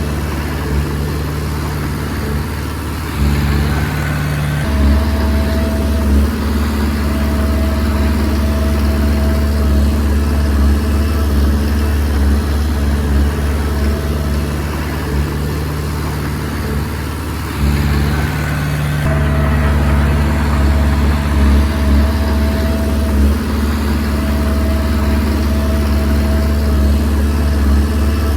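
Diesel engine of a Komatsu D20P crawler bulldozer running steadily while pushing soil. Its note steps up twice, about three seconds in and again near eighteen seconds, with a thin whine coming and going in between.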